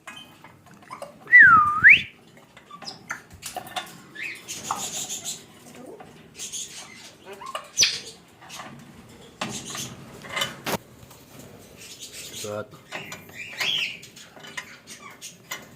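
A loud whistle that dips and then sweeps up about a second and a half in, then a pet parrot's short squawks and chirps mixed with metal clinks and rattles from the cage and its door latch.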